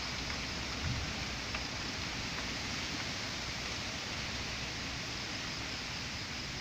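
Steady rain falling during a severe thunderstorm, an even, unchanging hiss.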